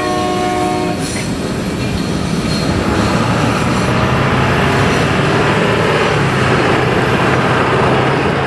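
Union Pacific train horn sounding a multi-note chord that cuts off about a second in, followed by the loud steady rumble and rail noise of the train passing over the crossing.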